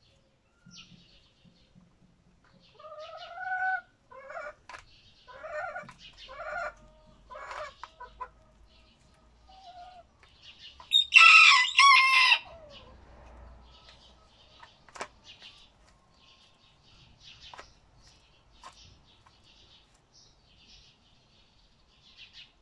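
Roosters crowing and clucking: softer pitched calls early on, then one loud crow about eleven seconds in lasting about a second and a half and dropping in pitch at its end, followed by faint scattered clucks.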